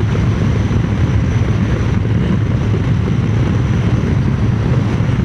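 Steady wind rush on the microphone over the Triumph Speed Twin 900's parallel-twin engine running at an even cruising pace.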